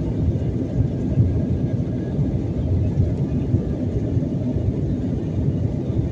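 Steady low rumble of a jet airliner heard from inside the passenger cabin, engine and airframe noise with no distinct events.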